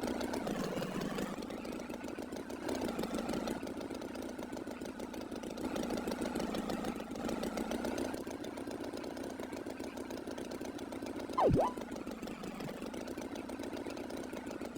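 A tractor engine sound effect running steadily, with a short, loud swooping sound about three-quarters of the way through that drops sharply in pitch and comes straight back up.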